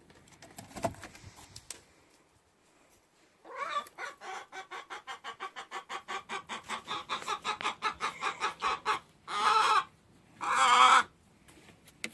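A hen cackling: a quick run of clucks, about five a second, growing louder, ending in two long loud squawks.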